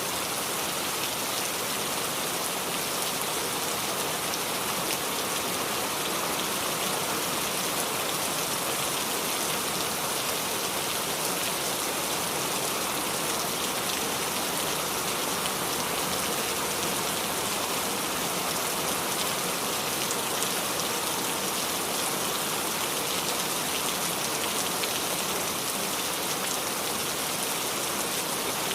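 Steady rain falling and dripping on the leaves of a small tree: an even wash of many fine, closely spaced drop ticks.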